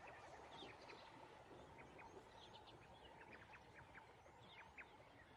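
Faint chirping of birds, many short calls scattered throughout, over a low steady hiss of outdoor background noise.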